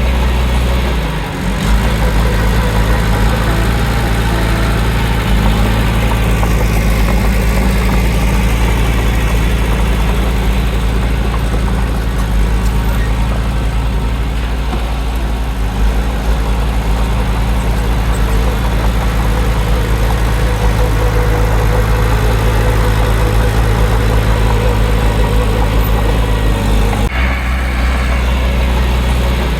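Heavy diesel engine of earth-moving machinery running steadily, its low engine tone the loudest sound, changing briefly about a second and a half in and again near the end.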